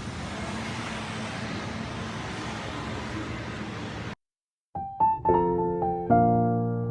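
Steady background noise for about four seconds, cut off suddenly, then piano background music with plucked single notes and chords begins.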